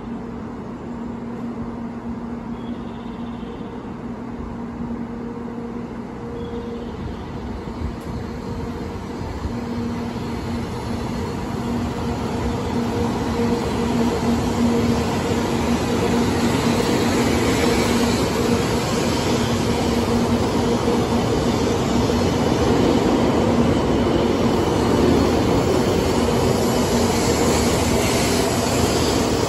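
700 series Rail Star shinkansen pulling out of the platform: a steady electrical hum, then motor and wheel noise growing louder from about ten seconds in as the train gathers speed past.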